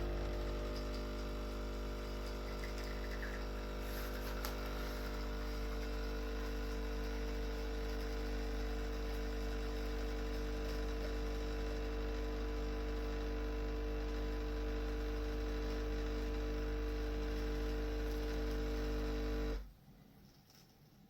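Neretva 20-bar espresso machine's pump running with a steady hum, then stopping suddenly near the end.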